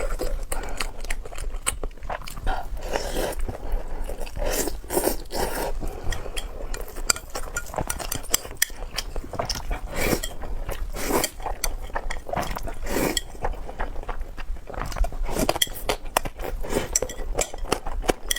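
Close-miked eating: irregular biting and chewing noises, with clinks of cutlery against a dish.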